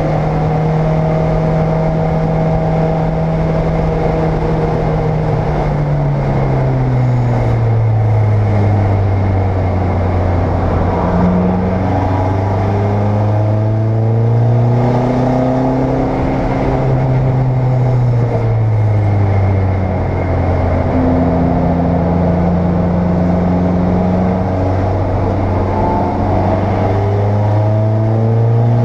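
Race car engine running hard, heard from inside the cockpit. Its pitch drops and then slowly climbs again several times, as it does with gear changes and braking.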